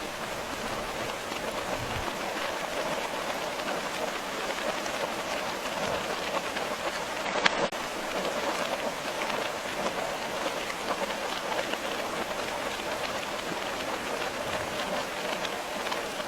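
Steady rain falling: an even hiss with many small drop taps. One sharper tap stands out about halfway through.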